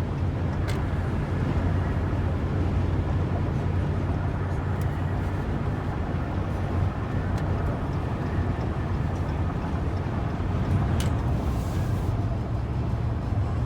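Car driving: steady low rumble of engine and road noise, with a couple of faint clicks, one about a second in and one near the end.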